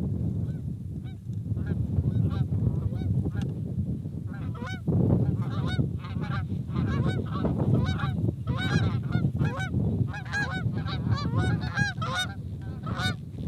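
A flock of geese honking, many calls overlapping, growing busier and louder about five seconds in as the birds come closer.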